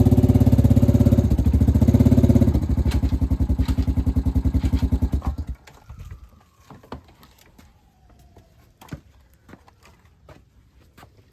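A small engine running with a rapid, even pulse, dropping a little about two and a half seconds in and cutting off about five and a half seconds in. Afterwards come scattered sharp knocks and a faint falling tone.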